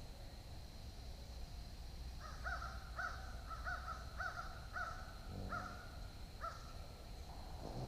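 A bird outdoors calling in a run of about nine short calls, starting about two seconds in and stopping about four seconds later, over a faint steady high tone.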